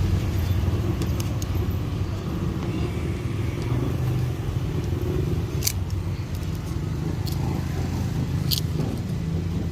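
Steady low rumble of motor vehicles, with two sharp clicks, one a bit past halfway and one near the end.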